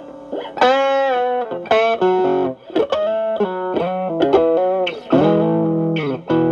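Stratocaster electric guitar through a Xotic AC Plus overdrive pedal with both channels stacked (Channel A boosting Channel B), into a Marshall Valvestate amp: an overdriven lead phrase of single picked notes with string bends, with held, bent notes about a second in and again about five seconds in.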